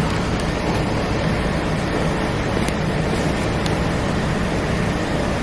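Steady rushing noise of an idling car with its air conditioning blowing.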